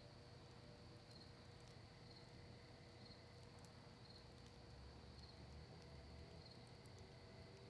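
Faint crackling of a cedar and maple wood campfire, a few sparse soft pops, with an insect chirping about once a second in the background.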